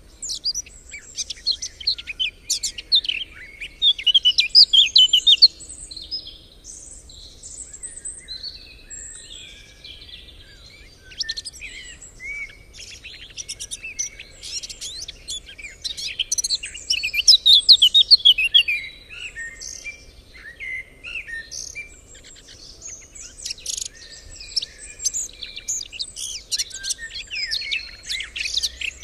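Many songbirds singing and chirping at once, a dense chorus of overlapping trills and quick calls.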